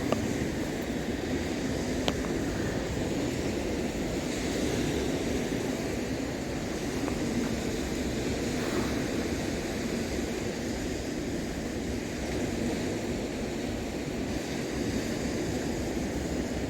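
Steady outdoor rush dominated by wind buffeting the microphone, with a couple of faint clicks near the start.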